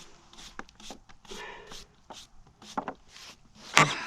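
Soft scattered scrapes and rustles of a hand brushing wet sawdust off a freshly chainsaw-milled board, with one sharp click near the end.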